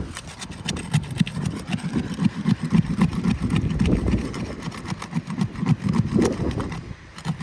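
Asphalt shingles being pried at with a tool against a stubborn sealant bonding strip: a run of irregular cracks and scrapes over a choppy low rumble.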